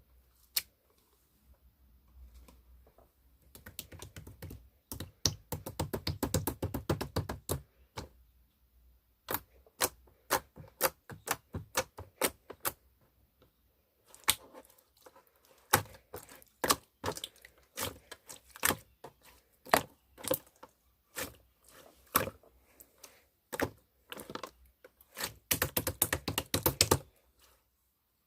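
A run of sharp clicks and taps, several a second, with no talking. Fast, dense flurries come about four seconds in and again near the end, and between them the clicks come singly at irregular gaps.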